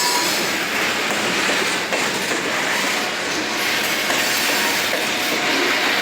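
Loaded Maryland Midland stone cars rolling past at close range, a steady rumble of steel wheels on the rails.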